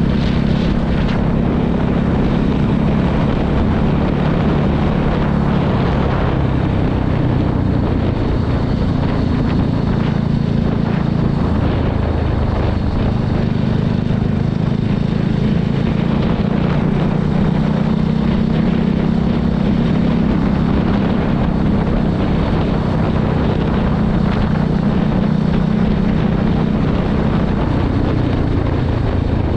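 Voge 300 Rally motorcycle's single-cylinder engine running while riding, its note shifting up and down slightly a few times, over a steady rushing noise.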